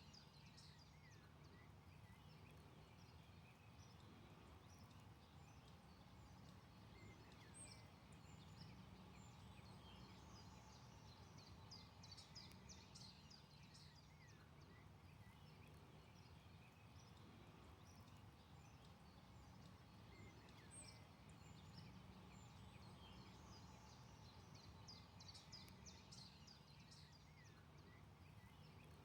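Faint forest ambience: distant songbirds chirping in quick high runs that come in several spells, over a low steady hum.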